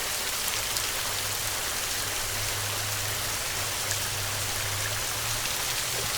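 Heavy rain falling steadily, a dense even hiss of drops, with a low rumble underneath through most of the middle.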